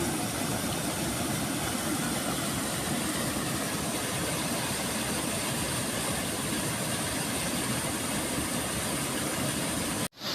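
Steady rush of fast-flowing water, even and unbroken, cutting off abruptly near the end.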